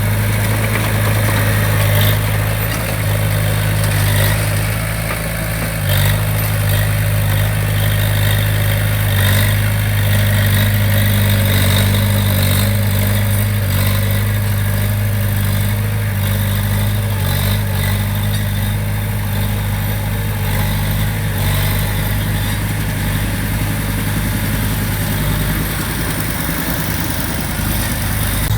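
Heavy diesel engine of a construction machine running steadily at an even, low hum, with a few light knocks here and there.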